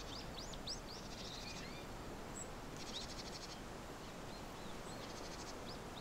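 Small birds chirping with quick rising-and-falling calls over a steady background hiss, thickest in the first second or so, with a short rapid trill about three seconds in and again near the end.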